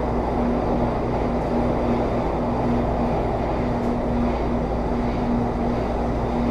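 Running noise inside a Taipei Metro Series C301 metro car, refitted with Bombardier IGBT-VVVF traction, cruising at steady speed. A steady rumble of wheels on rail, with a low steady hum that cuts in and out.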